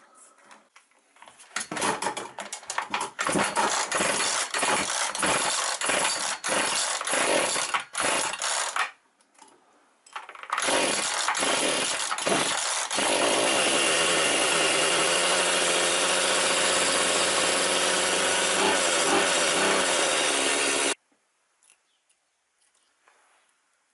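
The two-stroke engine of a McCulloch HT5622 hedge trimmer running after a carburettor rebuild. It runs in uneven bursts, dies briefly about nine seconds in, then starts again. From about thirteen seconds it runs steadily, and it cuts off suddenly near the end.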